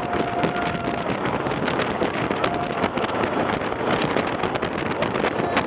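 Wind rushing over the microphone as a Millennium Force steel roller coaster train runs along its track at speed, with a steady rumble from the train underneath and a faint high tone near the start.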